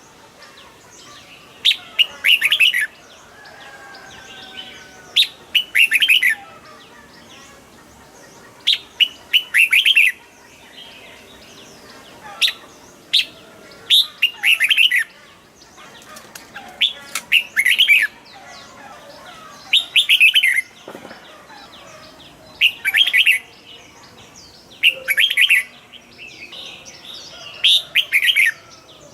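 Red-whiskered bulbul singing loud, short, bubbly song phrases, one about every two to three seconds, with fainter chirps in between.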